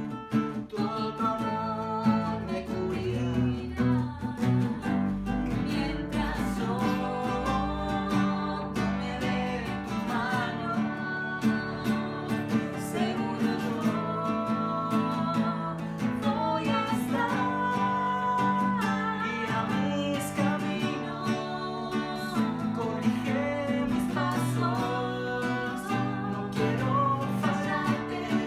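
Worship song: an acoustic guitar strummed steadily under a singing voice.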